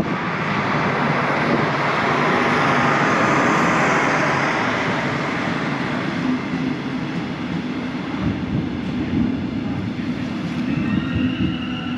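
Passenger train running past a station platform: a loud rushing rumble that swells a few seconds in, then eases to a steadier rumble with a low hum.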